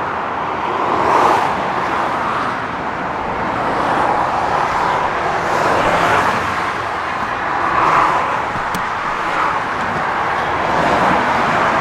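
Motorway traffic rushing past close by, a steady roar of tyres and engines that swells and fades as vehicles go by.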